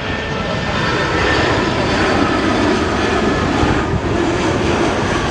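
Airliner engine noise, loud and steady with no sudden changes.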